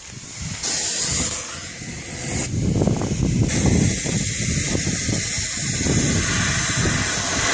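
Sprayer hissing as a clear coating is sprayed onto a headlight lens, in two passes: the first starts just under a second in and eases off around two and a half seconds, the second starts about a second later and continues. The coating self-levels as it builds up.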